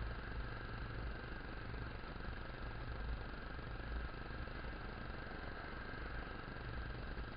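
Motorcycle engine running steadily while riding, under a constant rushing noise.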